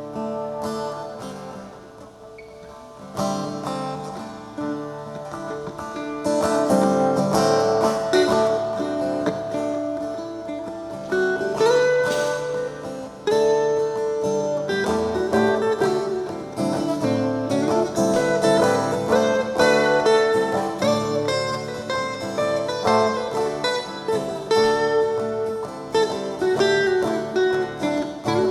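Guitar playing an instrumental passage of picked notes and strums, with some notes bent up in pitch. It is soft at first and grows fuller about six seconds in.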